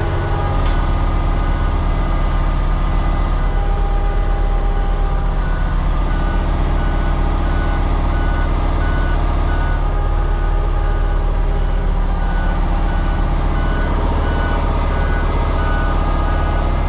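Peterbilt 389X rotator wrecker's heavy diesel engine running steadily under load while the truck backs up a loose gravel grade with all drive axles locked. A reverse alarm beeps faintly in some stretches.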